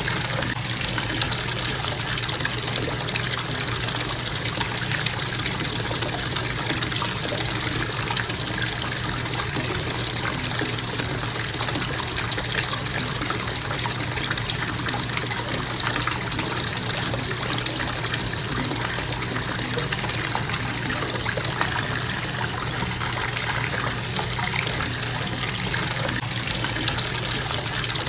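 Bathtub faucet running steadily into the tub, a constant even rush of water.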